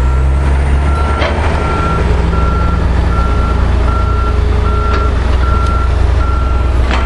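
A dump truck's reversing alarm beeping steadily, about three beeps every two seconds, over the low, steady running of heavy diesel engines.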